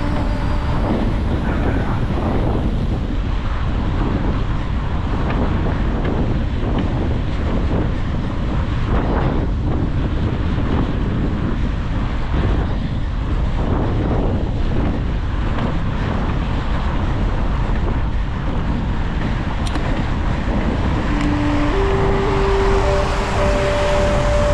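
Wind rushing over an action camera's microphone on a moving bicycle, a loud steady low rumble mixed with road and traffic noise. Music comes in near the end.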